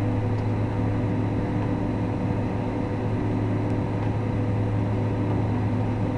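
Steady cabin noise of a Boeing 767-300ER on the ground after landing: a low, even hum with a few steady tones above it, from the jet engines idling and the air-conditioning.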